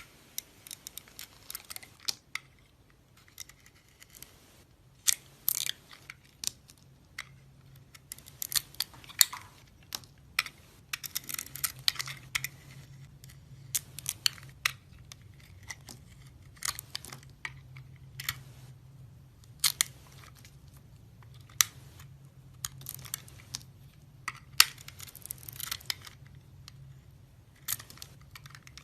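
Blade cutting and scraping through a bar of soap: irregular bursts of crisp crackling and sharp clicks as the soap splits and flakes off.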